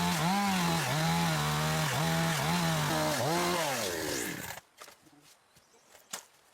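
Chainsaw cutting timber, its engine pitch dipping again and again as the chain bites into the wood. The saw stops abruptly about two-thirds of the way through, leaving only a few faint knocks.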